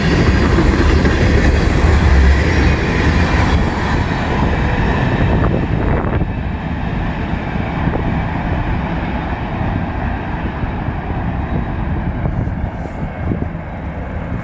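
CN freight train rolling past, a steady rail rumble that is loudest in the first few seconds and fades away as the train recedes.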